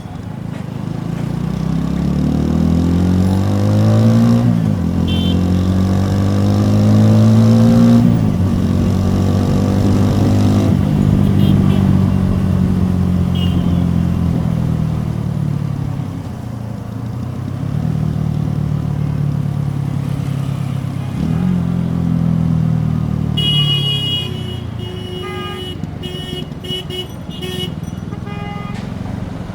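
TVS Apache RTR 4V single-cylinder motorcycle exhaust, recorded close to the pipe, accelerating through the gears: the engine pitch climbs, drops with a gear change about four seconds in, climbs again to about eight seconds, then holds steady and eases off. Vehicle horns honk in the last several seconds.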